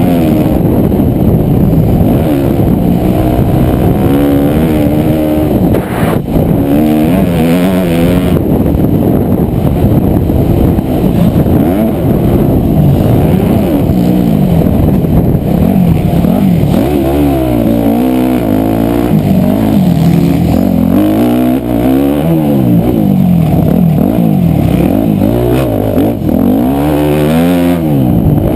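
Motocross dirt bike engine heard up close, revving up and dropping back over and over as the rider accelerates, shifts and slows through the track.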